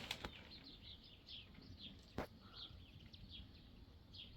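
Faint bird chirping: a run of short, high, falling notes, two or three a second, with a few sharp clicks near the start and one about two seconds in.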